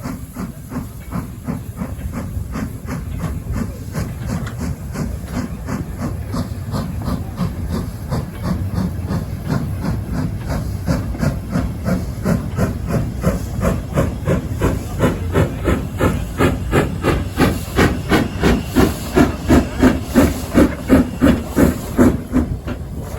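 Steam locomotive working hard, its exhaust chuffing in even beats with steam hiss. The beats grow steadily louder as it approaches, reaching about three a second near the end before dropping away suddenly.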